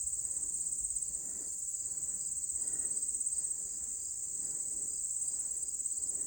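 Chorus of insects, crickets or katydids, trilling in one high, unbroken drone.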